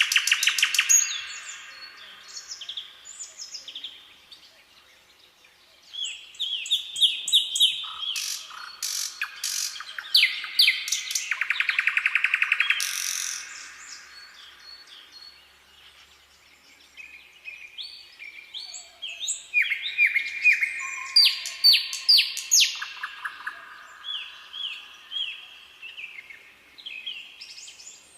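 Songbirds singing: rapid trills and repeated short chirping phrases come in loud bouts, with quieter spells between them.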